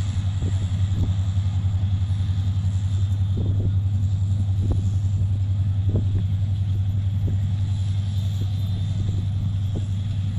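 Train rumbling: a steady low rumble and hum with scattered short knocks.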